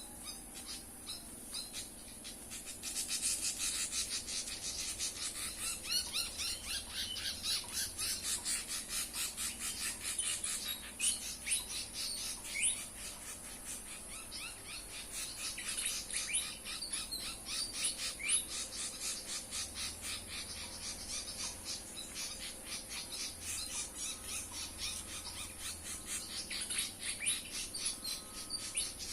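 Pied fantail calls: fast, high, chattering notes run on from about three seconds in, broken now and then by short rising squeaky whistles, over a steady high insect buzz.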